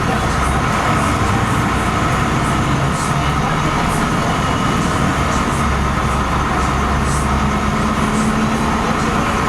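LiAZ-5256 city bus under way, heard from inside the passenger cabin: a steady engine drone and road noise, with the low engine note shifting partway through.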